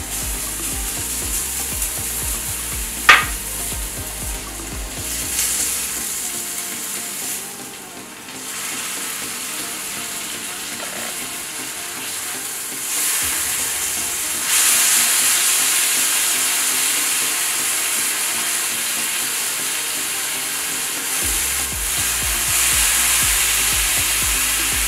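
Sliced kimchi and minced garlic sizzling in oil on a hot flat griddle while a spatula stirs and scrapes through it. The sizzle gets louder a little past the middle, and there is one sharp clink about three seconds in.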